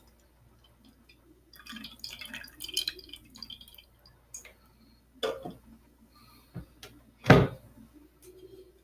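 The air fryer's hot drip pan being handled, with dripping liquid sounds as the grease from the chicken is moved about. Scattered clicks and rustles come first, then a few separate knocks, the loudest about seven seconds in.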